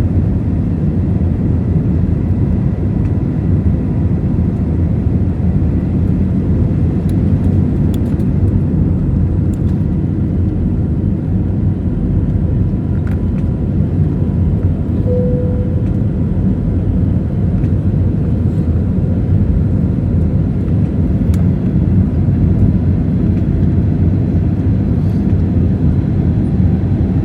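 Steady roar of an Airbus A320neo's CFM LEAP-1A engines and airflow heard from inside the passenger cabin during the climb, a deep even rumble with a faint steady whine above it. A brief single tone sounds about halfway through.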